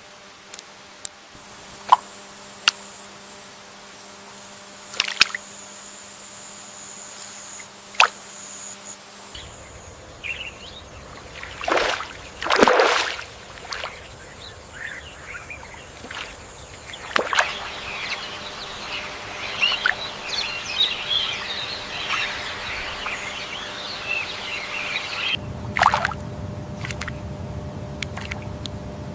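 Rainforest water ambience: scattered single drips and plops, a few louder splashes about a dozen seconds in, and dense high chirping from birds through the second half.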